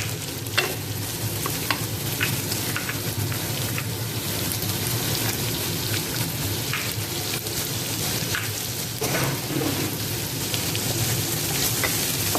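Diced carrot and garlic sizzling in hot oil in a wok as they are stir-fried, with a steady hiss and occasional short scrapes or clicks against the pan.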